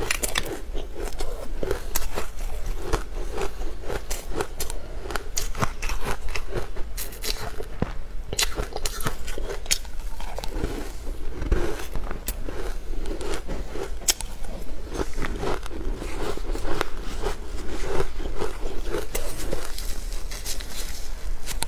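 Close-miked eating of crunchy food coated in chopped green herbs: crisp bites and chewing with crackling crunches, a dense run of sharp clicks throughout, over a steady low hum.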